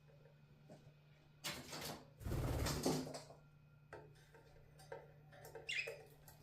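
Pet budgies at their bath: a loud rustling flurry of about two seconds in the middle, then scattered light ticks and one short chirp near the end, over a steady low hum.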